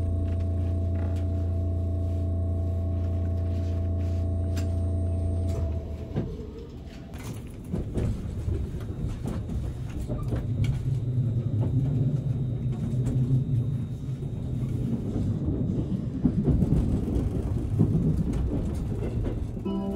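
Inside a JR Kyushu 787-series electric express car: a steady low hum while the train stands in the station, which stops suddenly about five and a half seconds in. From about eight seconds in, the uneven rumble of the train rolling away and gathering speed takes over.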